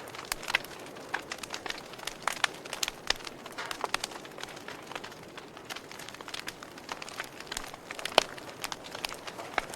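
Campfire burning and crackling: irregular sharp pops and snaps over a soft steady hiss, with one louder pop a little after eight seconds in.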